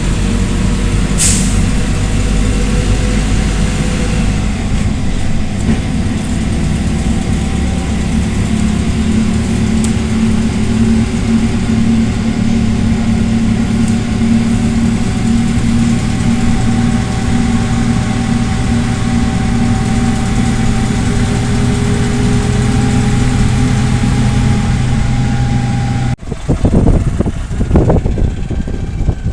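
PAZ Vector Next city bus engine running steadily, with a short hiss of air about a second in. Near the end the sound breaks off abruptly and gives way to louder, uneven rumbling.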